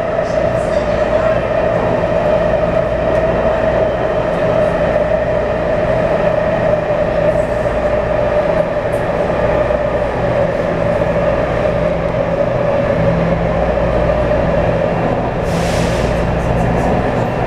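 Taipei Metro C301-series train with refurbished propulsion running, its motors giving a steady whine that drifts slightly lower in pitch over a low rumble. There is a brief hiss near the end.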